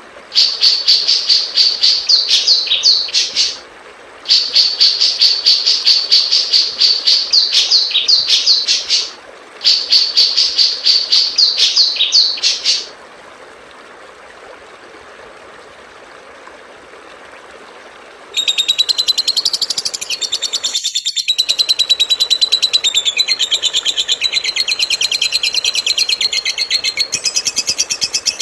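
Recorded songbird song in a masteran bird-song tutoring track: three runs of fast, repeated high chirps, a pause of a few seconds with only a faint hiss, then a different bird's dense, very fast high trill for the last ten seconds.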